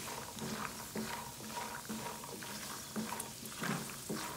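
Almonds sizzling and bubbling as they fry in ghee in a nonstick pan. A silicone spatula stirs them with several short strokes.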